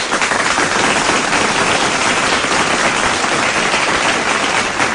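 Dense crowd applause at a steady level, starting suddenly just before and holding without a break.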